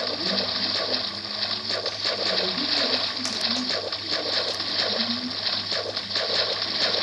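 Steady splashing, running water.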